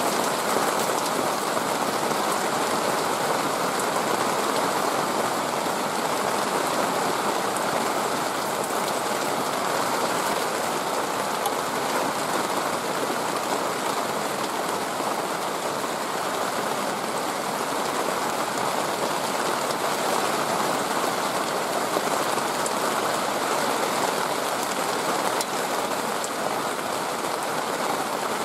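Steady, even rushing of water, like heavy rain.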